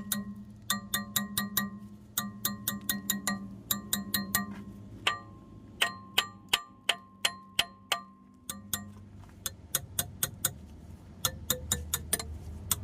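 Hammer blows on steel in quick runs of four or five, about four a second, each strike ringing briefly. A steady low hum runs underneath, dropping out for a few seconds in the middle.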